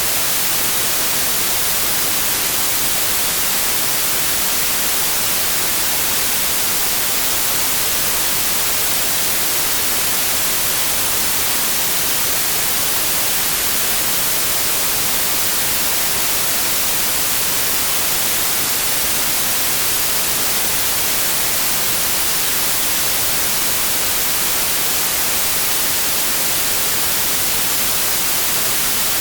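Steady, loud, digitally generated white noise: an even hiss, without change or rhythm.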